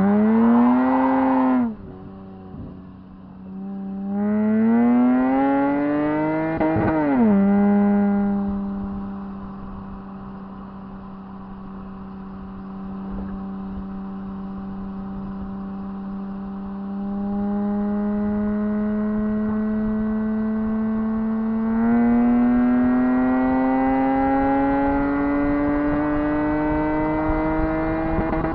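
Lexus IS200's 2.0-litre 1G-FE straight-six through a catless exhaust with an aluminium rear section and stainless muffler, heard from inside the car. A quick rev is cut off sharply at the start; then the engine pulls with rising pitch until a sudden drop in pitch as the automatic gearbox shifts up, settles into a long steady cruising note, and climbs slowly again under more throttle before easing off at the end.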